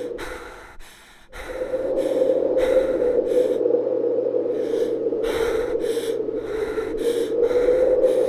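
Stock tornado sound effect: a continuous rushing wind-like whoosh with a steady hum in it, pulsing slightly. It fades almost away about a second in, then swells back up and holds.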